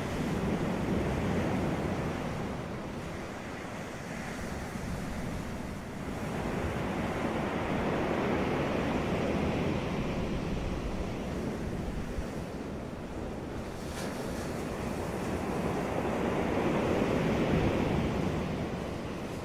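Ocean surf on a beach: waves breaking and washing up the shore, the sound swelling and ebbing in three slow surges.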